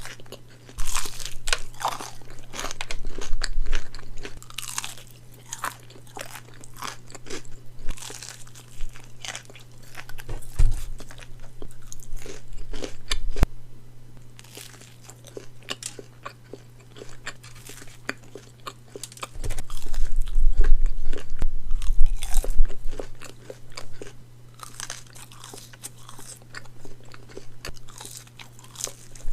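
Close-miked eating: crunchy bites and chewing of fried chicken fingers, with a steady low hum under it and a louder stretch of chewing about two-thirds of the way through.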